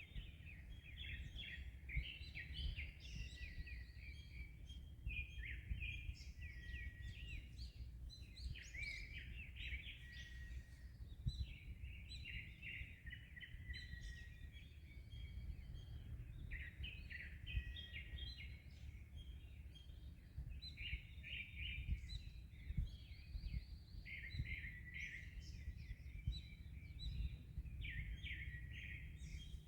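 Many small birds chirping and trilling continuously in a morning chorus, over a steady low rumble of wind and waves.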